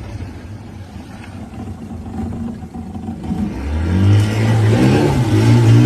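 Outboard motor of a small water-taxi boat, a low rumble at first, then revving up about three and a half seconds in and running louder with a rising pitch.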